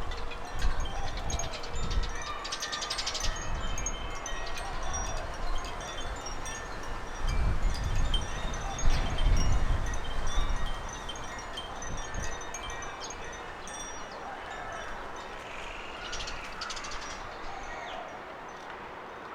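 Small garden birds chirping and twittering in many short, high notes, with fast trills about 3 seconds in and again near the end. Wind gusts rumble on the microphone midway.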